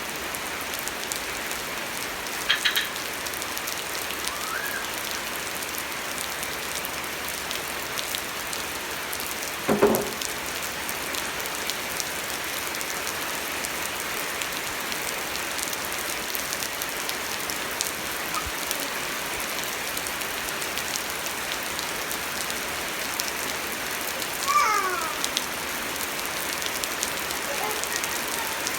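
Steady rain falling and pattering on surfaces, with fine drop ticks throughout. A short knock sounds about ten seconds in, and a few brief falling pitched calls come near the end.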